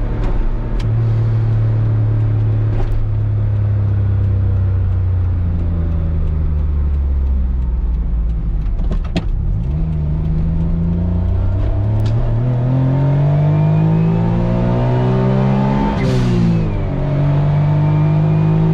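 Autozam AZ-1's small turbocharged three-cylinder engine pulling with a straight downpipe and no catalytic converter. A steady drone eases off about nine seconds in, climbs in pitch as the engine revs up, drops sharply at a gear change about sixteen seconds in, then holds steady again.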